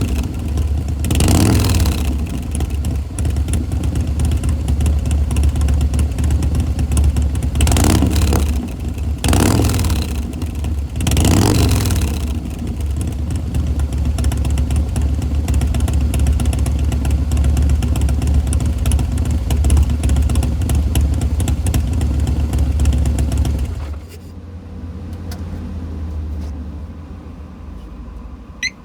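Harley-Davidson V-twin with a Bassani Road Rage 3 two-into-one exhaust idling, blipped four times to brief revs in the first twelve seconds, then idling steadily until it shuts off about 24 seconds in. A faint low hum remains after it stops, with a short high chirp at the very end.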